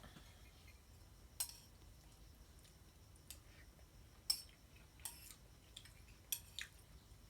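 Eating sounds: about seven sharp, irregular clicks and taps over several seconds, the loudest a little past four seconds in.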